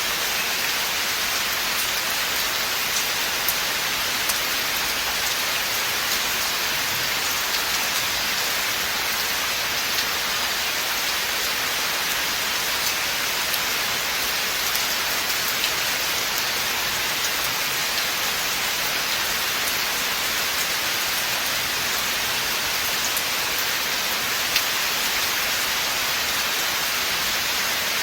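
Steady rain falling on a forest, a dense even hiss with occasional louder single drops.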